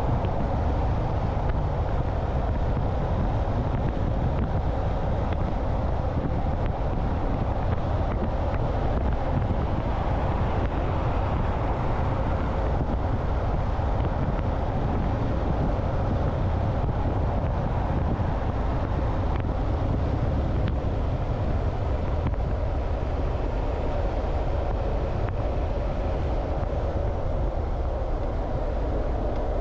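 Motorcycle under way, its engine running steadily with wind rushing over the microphone.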